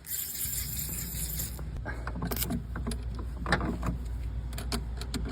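Workshop work sounds: a hiss for about a second and a half, then scattered metallic clinks and knocks over a low steady hum.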